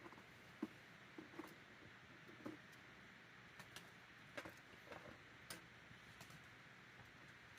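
Faint crackling of a wood campfire: irregular small pops and clicks over a low steady hiss.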